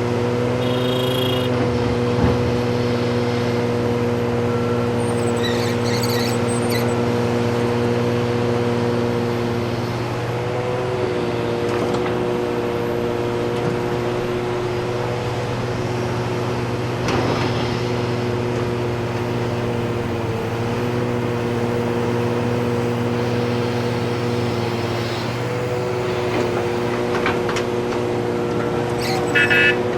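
Heavy diesel engines of earthmoving equipment running steadily, their pitch dipping slightly a couple of times as the load changes. There are a few clanks and short high-pitched tones about a second in and again near the end.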